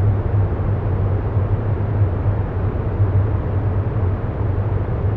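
Steady rumbling background noise with a strong low hum, laid under the meditation as an ambient bed.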